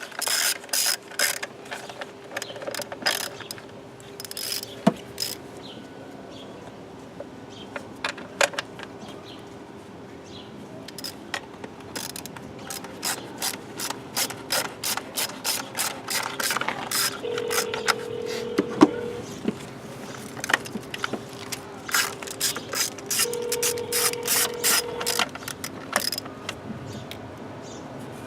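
Hand socket ratchet clicking in quick bursts of strokes as a bolt is turned during ignition coil work, with pauses between the runs.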